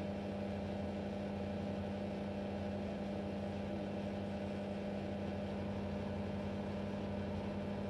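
Steady electrical hum at one fixed low pitch.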